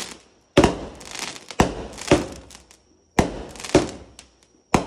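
Consumer fireworks cake firing: about six sharp bangs, roughly half a second to a second apart and loosely in pairs, each trailing off quickly.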